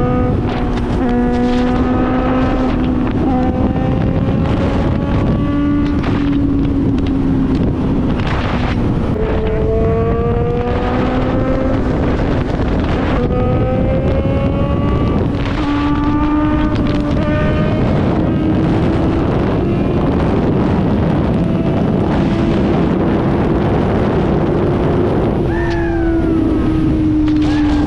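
Suzuki GSX650F's inline-four engine through a new aftermarket exhaust, accelerating hard up through the gears. The pitch climbs in each gear and drops at each of several upshifts, then falls away about 25 s in as the bike slows. Wind rushes over the microphone throughout.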